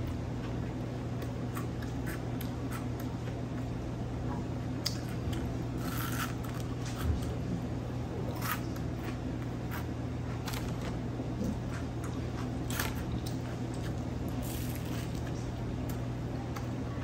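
Crunchy bites and chewing on battered fried fish: sharp crunches every second or two over a steady low hum.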